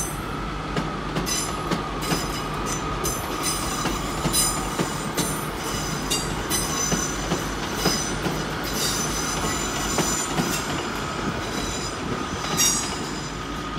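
Two coupled Class 150 Sprinter diesel multiple units pulling away, their diesel engines running with a steady whine. Repeated short high-pitched squeals from the wheels on the rails come and go, one louder squeal near the end.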